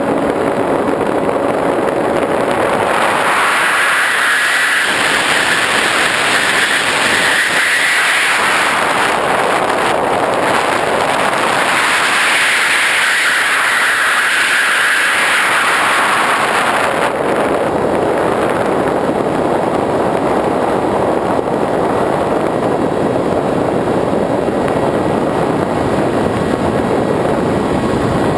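Radio-controlled model airplane's motor and propeller heard from the camera on board the plane, a steady loud whine over rushing air. The whine swells and fades a few times before settling into a steadier drone.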